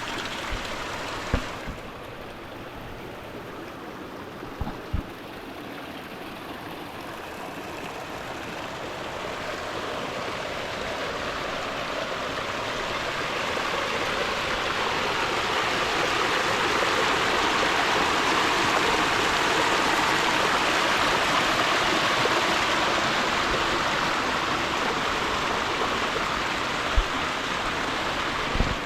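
Mountain stream rushing, a steady wash of water that grows gradually louder toward the middle and eases slightly near the end. A few brief low knocks come near the start and again near the end.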